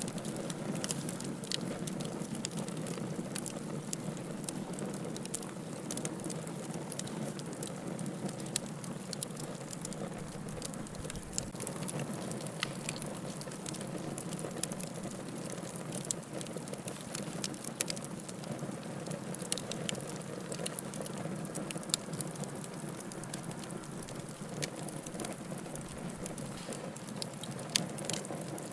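Wood fire burning in a fireplace: a steady low rushing with irregular sharp crackles and pops of burning firewood.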